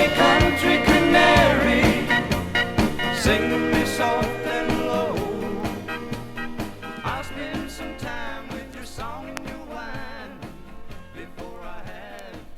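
A 1970s country song's closing bars, the band playing on as the track fades out steadily.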